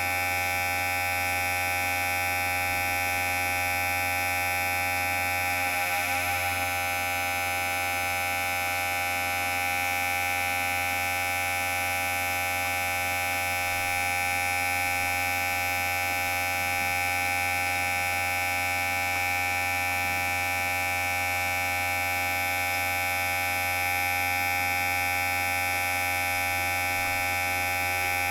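Electric hair clipper running with a steady, even buzz, with a slight brief waver about six seconds in.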